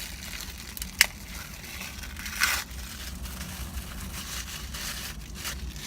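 Packaging being handled: crinkling and tearing, with a sharp click about a second in and a louder rustle a little later.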